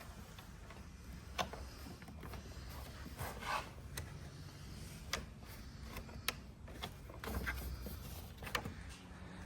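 Scattered small clicks and brief scrapes of hands working at the plastic retaining clips of a car's front grille, over a low steady hum.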